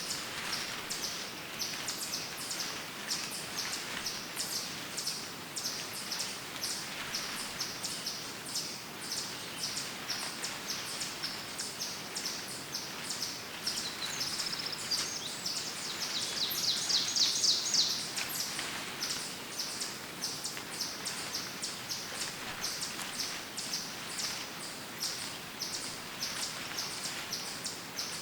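Woodland birdsong: a short high chirp repeated about twice a second, with a louder, rapid trill about halfway through.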